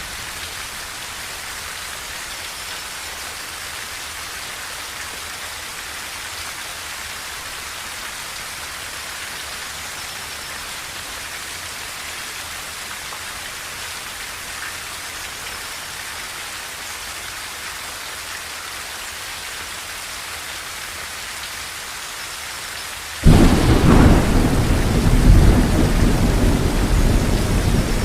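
Steady rain on a tin roof, then thunder breaks suddenly near the end, much louder, with a deep rolling rumble.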